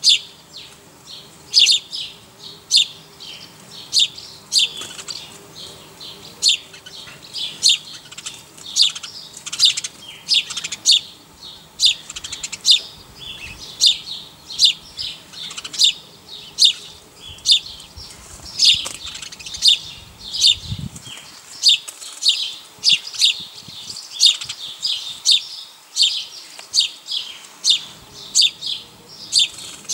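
Small birds chirping: short, high chirps repeated over and over, about two a second.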